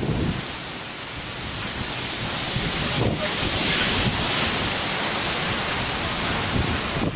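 Gusty wind ahead of a thunderstorm: a rushing hiss that swells loudest around the middle, with wind buffeting the microphone at the start and end.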